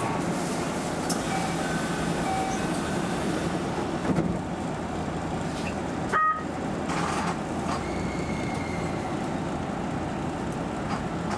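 Keio Inokashira Line train running just after pulling out of a station: steady wheel-on-rail and motor noise with a few faint high tones in the first seconds. A short, loud high tone sounds once about six seconds in.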